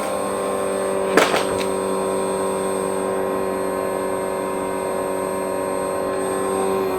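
Vacuum cleaner motor running steadily with a constant whine. A sharp click sounds about a second in, followed by two fainter ones.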